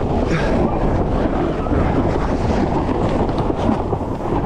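Steady wind rumbling and buffeting on the microphone of a camera on a sailboat under way.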